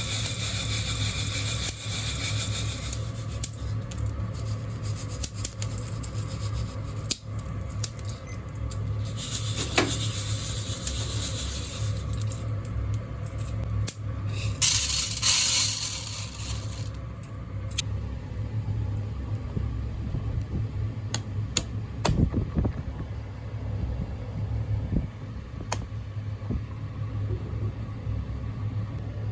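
Coffee beans rattling and scraping in a hand-held wire-mesh roaster, shaken in spells, over a steady low hum. A few sharp single pops of beans cracking stand out.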